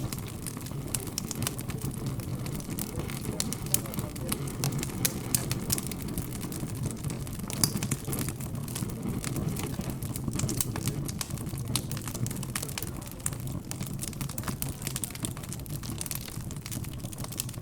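Fire crackling with frequent sharp pops, over a low, indistinct murmur of background chatter.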